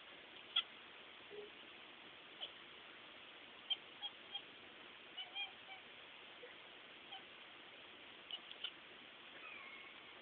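A cat making short, high-pitched chirps and clicks at irregular intervals over a faint hiss.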